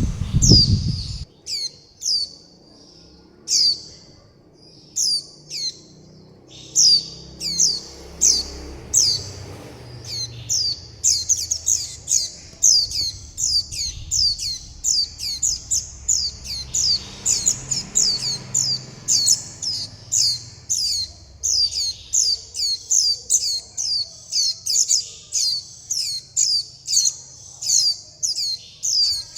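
Juvenile white-eye calling: a run of short, high, down-slurred chirps, spaced out at first and coming quickly, about two to three a second, from about ten seconds in. A low thump at the very start.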